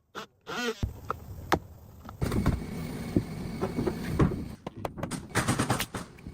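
OSB sheets scraping and knocking as they are handled and fitted onto the floor frame, with several sharp taps and a longer stretch of rough scraping about two seconds in.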